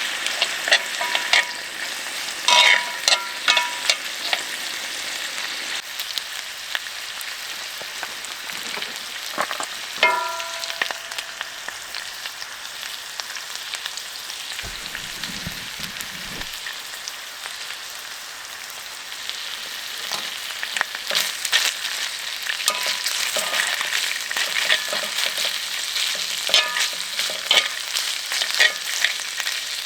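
Food sizzling and crackling in a hot pan, with scattered pops and the clinks of metal utensils; one clink about ten seconds in rings briefly.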